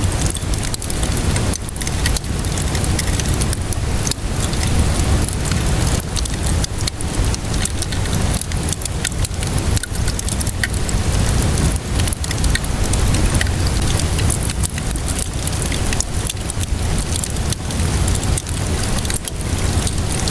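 Wood fire crackling, with many small sharp pops scattered throughout, layered over steady rainfall and a constant low rumble.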